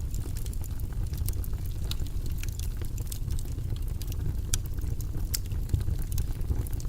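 Steady low, rumbling background noise from a white-noise track, with scattered light clicks over it at irregular intervals.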